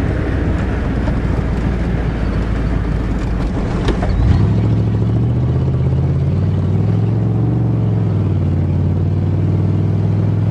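1988 Chevrolet pickup truck driving, with engine and road noise from inside the cab. About four seconds in there is a sharp clunk, then the engine revs up and runs steadily.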